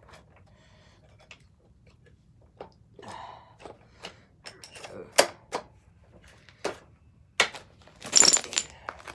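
Metal parts and hand tools clinking and knocking while a small dirt bike's rear wheel and chain are worked on: scattered sharp knocks, then a louder jangling clatter with a metallic ring about eight seconds in.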